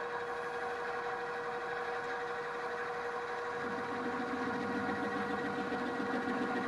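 Drill press running an end mill held in its drill chuck, taking a milling cut: a steady whine, joined about halfway through by a rough rumbling chatter. The chatter is the sign of the drill press's slender quill deflecting under the milling cut.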